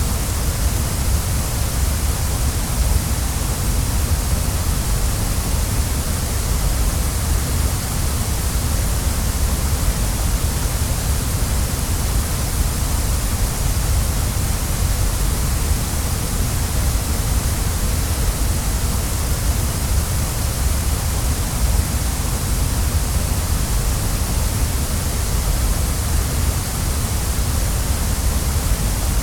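Waterfall rushing: a steady, even roar of falling water with a strong low rumble and a bright hiss, unchanging throughout.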